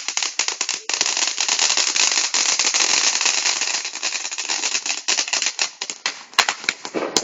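Fireworks crackling: a dense, rapid run of pops and crackles that thickens about a second in and thins out toward the end, with a few sharper cracks near the end.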